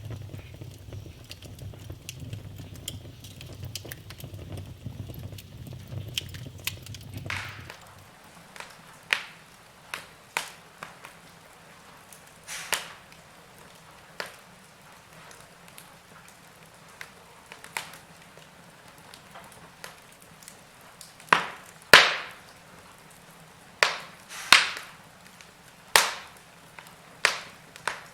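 Wood fire burning in a fireplace, crackling and popping. A low rumble of the flames runs for the first several seconds, then drops away, leaving sharp separate pops with a cluster of loud ones near the end.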